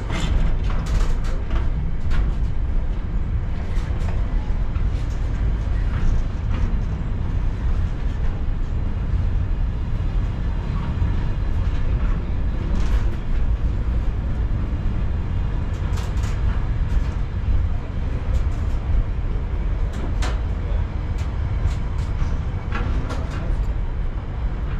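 Freight train running by: a steady, heavy low rumble with scattered clicks and clanks.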